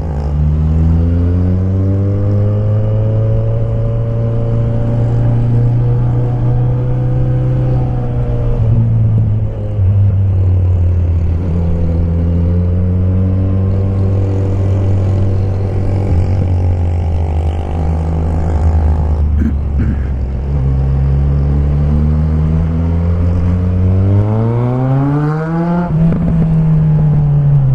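Suzuki Bandit 1250's inline-four engine through a straight-pipe exhaust with no muffler, running with its note slowly rising and falling several times, then climbing sharply about 24 seconds in and dropping back.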